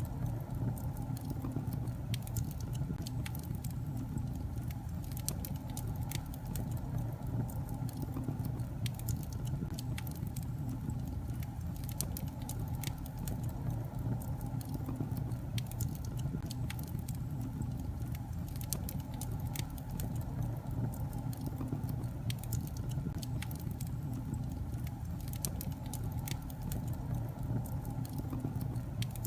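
Wood fire burning in a fireplace: a steady low rumble of flames with frequent small, irregular crackles and pops from the logs.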